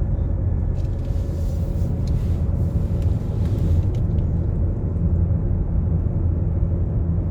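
Car driving along a road: steady low engine and road rumble, with a brighter hiss joining from about one second in until about four seconds in.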